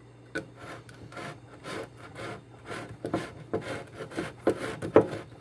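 Plastic trigger sprayer being screwed onto a spray bottle: a run of short rasping rubs of plastic on plastic, about three a second, one louder near the end.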